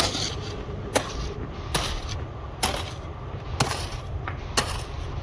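Sharp knocks repeating roughly once a second over a steady low engine rumble.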